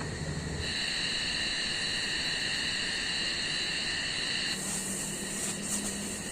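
Insects trilling steadily in several high pitches over a steady hiss; the trilling drops away about four and a half seconds in, leaving a higher hiss.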